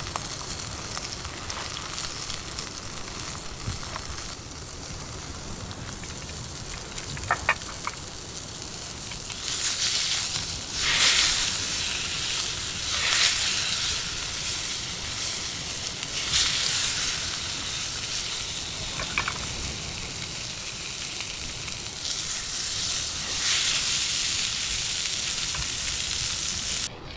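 Food sizzling as it fries in a pan over a campfire, growing louder and swelling about ten seconds in, with a couple of light clicks before that. It cuts off abruptly near the end.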